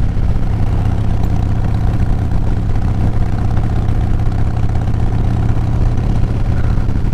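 Motorcycle engine running at a steady cruise with wind noise, heard through a mic inside the rider's helmet: an even, unbroken drone.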